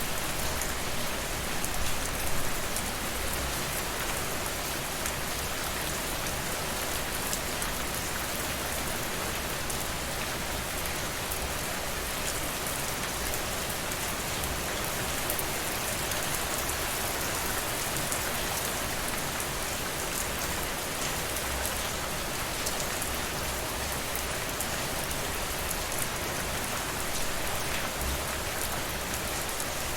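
Steady rainfall with fine drops pattering on a surface, an even hiss with scattered drop ticks, no change in intensity.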